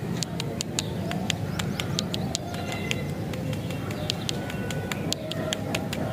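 Birds chirping outdoors: many quick high ticks and a few short high notes, over a steady low background rumble.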